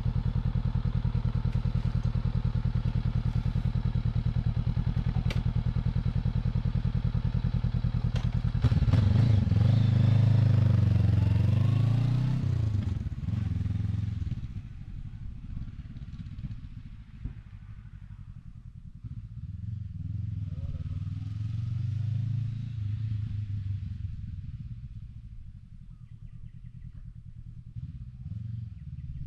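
Honda CB500X parallel-twin motorcycle engine idling with an even, fast pulse, then revved and pulling away about nine seconds in, its pitch rising and falling through the gears. After about fourteen seconds it drops to a quieter, wavering low rumble.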